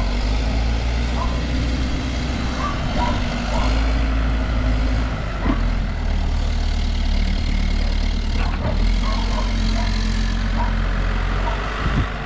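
New Holland backhoe loader's diesel engine running steadily, its pitch and load shifting a few times as the machine works.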